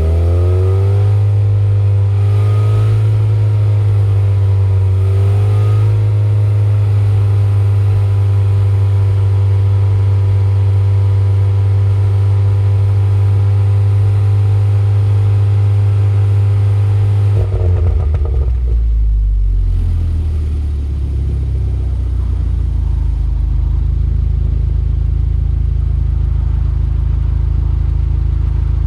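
Car engine held at a steady raised rpm through its exhaust for about seventeen seconds, then dropping back to idle with a brief crackle as the revs fall. It idles steadily and starts to rev again at the very end. The car runs a Stratified 91-octane tune set up for pops and crackles.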